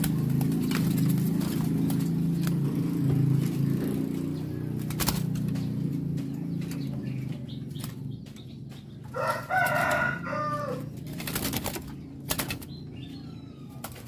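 A caged black-naped oriole fluttering in its cage, with sharp wing flaps and knocks against the bars and perches. Under it runs a low, steady drone that fades after about six seconds. A single drawn-out call of about a second and a half comes about nine seconds in.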